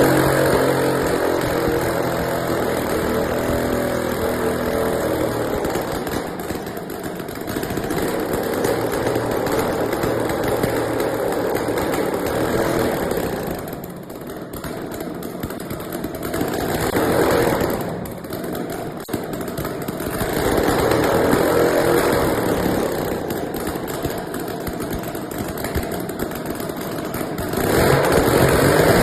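550cc UAV engine running loud, its speed falling back and rising again several times, with run-ups about halfway through and near the end.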